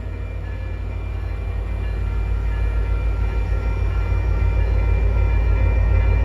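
Caltrain holiday train pulling out of the station, its low rumble building steadily louder as it gathers speed and comes closer. A few steady high tones sound above the rumble.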